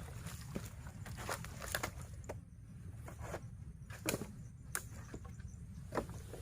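Scattered sharp clicks and knocks at uneven intervals, about eight in all, over a steady low rumble.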